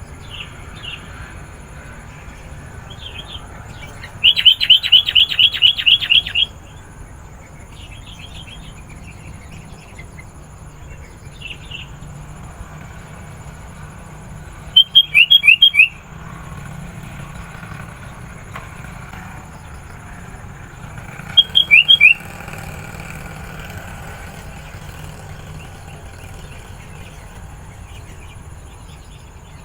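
Sooty-headed bulbul calling: a fast chattering run of about ten high notes about four seconds in, then short bubbly phrases of a few notes about fifteen and twenty-two seconds in, with softer calls between. A low steady hum lies under the calls.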